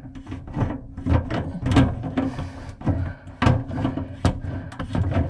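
A string of irregular knocks and clatters, like hard objects being handled and set down, over a faint steady low hum.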